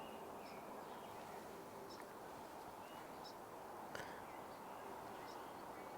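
Faint outdoor ambience with a few short, faint bird chirps from a distance and two faint clicks.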